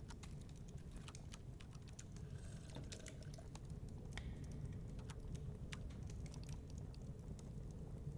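Wood fire crackling in a fireplace: irregular sharp snaps and pops over a steady low rumble of storm wind.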